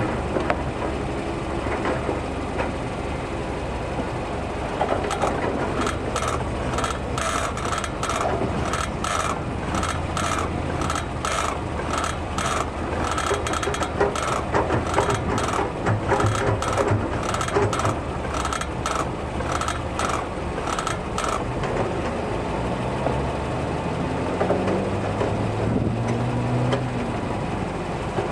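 Brembo brake caliper giving a loud, rapidly repeated creaking 'gigigigi' under firm brake pressure at a standstill. The run goes on for about fifteen seconds, then stops. It is put down to the caliper's grease having run out, washed away by heat, which is common on Brembos. A steady engine hum runs underneath.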